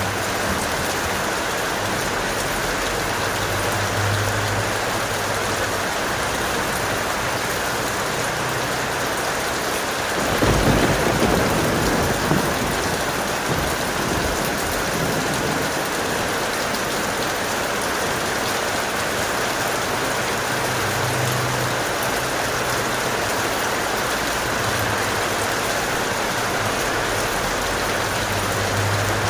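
Steady heavy rain, with a low rumble of thunder that starts about ten seconds in and dies away over a few seconds.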